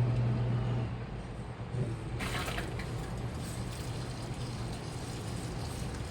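Washing machine running, with a low motor hum that eases after about a second. A steady rush of water follows, with a short hiss about two seconds in.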